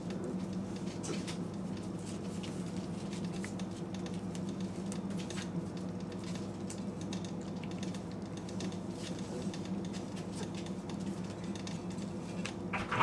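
Steady hum of a microwave oven running, with scattered light clicks and pattering from four-week-old Great Pyrenees puppies' claws moving about on the floor. A short, louder sound comes right at the very end.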